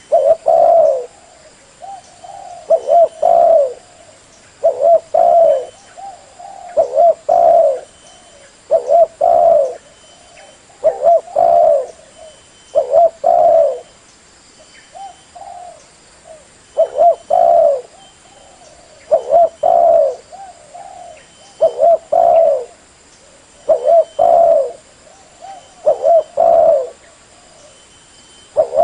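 Spotted dove (tekukur) cooing its song, the same low phrase repeated about every two seconds. This is a lure call (pikat) for drawing in wild doves.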